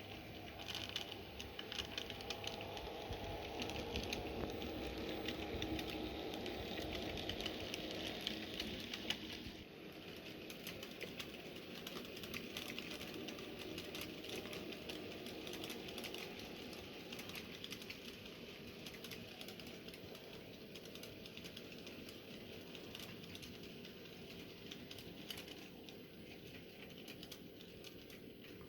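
N gauge Graham Farish Class 37 model locomotive running on the layout track: a fast, fine clatter of wheels on the rails over a faint steady motor hum. It is louder for the first nine seconds or so, then drops to a quieter level.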